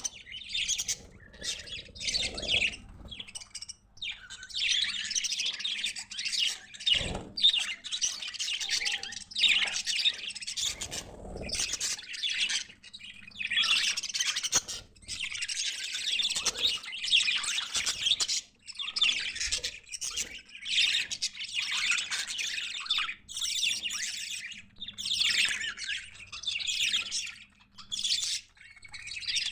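Budgerigars chirping and warbling in quick, scratchy runs of a second or two, with short breaks between them.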